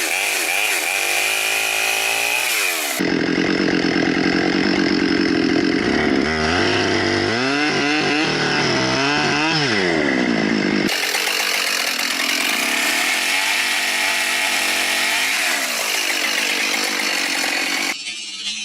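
Chainsaws running and cutting, the engine pitch rising and falling as the saws rev under load. The sound changes abruptly about 3 and 11 seconds in, as one saw recording gives way to another.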